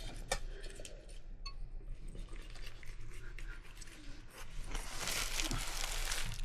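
Small clicks and scrapes of things being handled, then a louder rustling, scraping noise for about a second and a half near the end.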